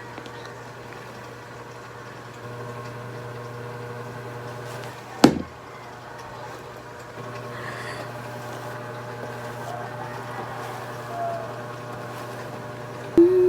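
Steady mechanical hum, with one sharp sound about five seconds in that sweeps quickly down in pitch. A person starts humming right at the end.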